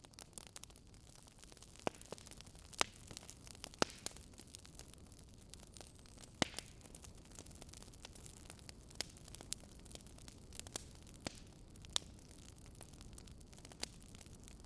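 Wood fire crackling: irregular sharp pops over a steady low hiss.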